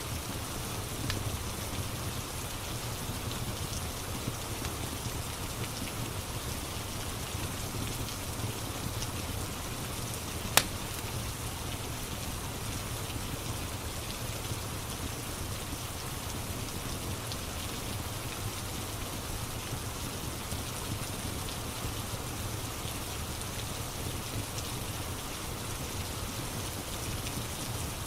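Steady rain falling on a surface, with faint crackles from a fireplace and one sharp pop about ten seconds in.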